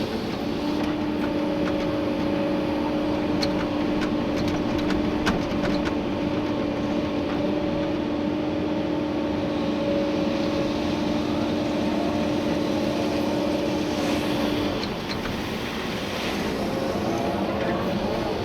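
Komatsu PC290-11 excavator working, heard from the cab: the diesel engine and hydraulics run under load with a steady whine that fades about fifteen seconds in, then starts to rise again near the end. A few sharp clicks come through in the first several seconds.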